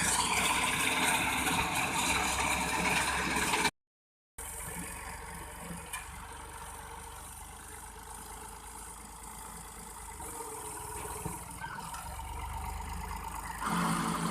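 Massey Ferguson 260 tractor's diesel engine running. The sound cuts out briefly about four seconds in, then the engine goes on more quietly and grows louder toward the end.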